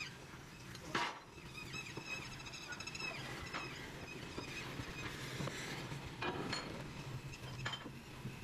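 Metalworking noise: scattered knocks and clinks of metal on metal over a steady low machine hum, with a high ringing tone about a second in.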